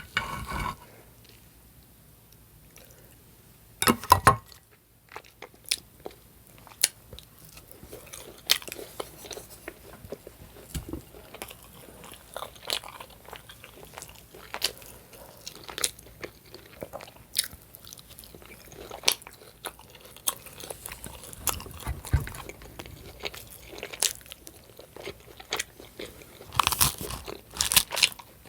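Close-miked chewing and biting of food, with many small wet mouth clicks. There is a loud knock about four seconds in and a louder cluster of sounds near the end.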